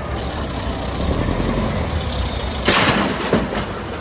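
Heavy diesel machinery running with a steady low rumble, with a sudden loud burst of noise about two-thirds of the way through and a couple of lighter knocks after it.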